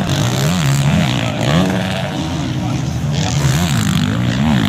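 450cc four-stroke motocross bikes racing on the track, their engines revving up and dropping back again and again as the riders work the throttle.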